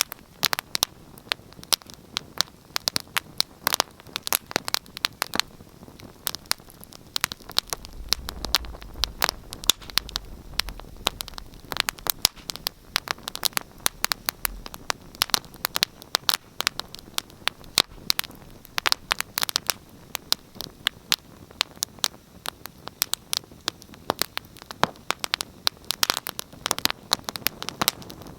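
Wood fire burning in a fireplace, crackling and popping with many sharp irregular snaps over a soft hiss, and a low rumble of the flames from about 8 to 14 seconds in.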